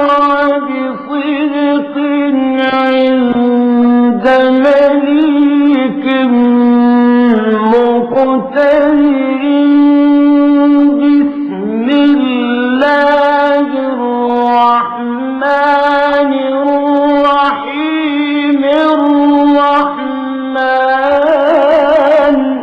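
A male Quran reciter chanting in the slow melodic murattal/mujawwad style, one voice drawing out long held notes with ornamented turns and glides. The chant breaks off right at the end.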